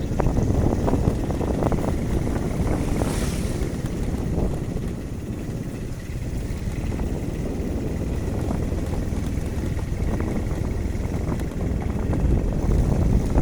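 Wind rumbling on the microphone over steady road and vehicle noise while travelling along a wet road, with a brief brighter hiss about three seconds in.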